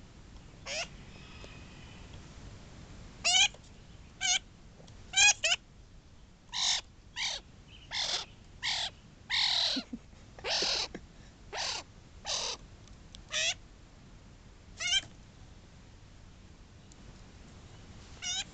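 Young pet bird, under two months old, calling over and over in short calls, about fifteen in all. The early ones are clearer, with a bending pitch; the middle run of calls is harsher and more grating. The calls stop a few seconds before the end.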